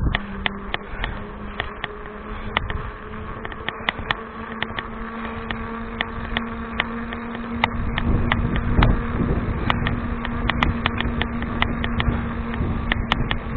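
Kinetic Chimera mountain bike riding along a paved path: a steady buzzing hum that creeps slightly higher in pitch, with scattered sharp clicks and rattles.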